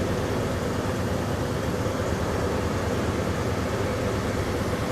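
2001 Dodge Ram 1500's engine idling steadily, running on its newly replaced fuel pump after failing to start before.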